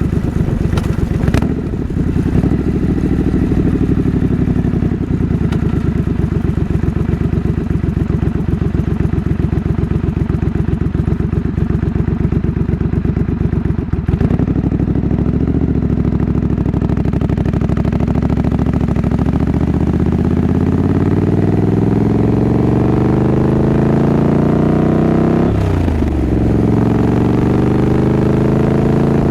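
Triumph Scrambler 900's 900 cc parallel-twin engine running at low revs with an even pulsing beat. About halfway through there is a sharp click, then the engine pulls away with rising pitch. Near the end it drops back briefly at a gear change and climbs again.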